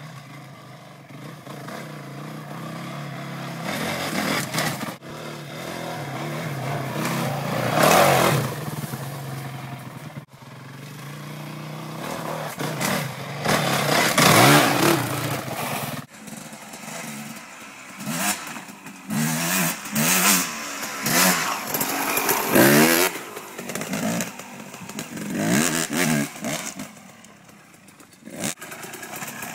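Dirt bike engine revving up and down as it is ridden hard, pitch climbing and falling with each burst of throttle, with a run of quick rev changes in the second half.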